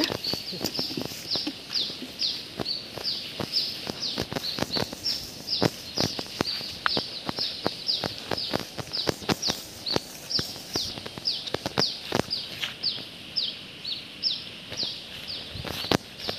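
A bird calling over and over, a short high note falling in pitch about three times a second, with footsteps and rustling through wet grass and mud.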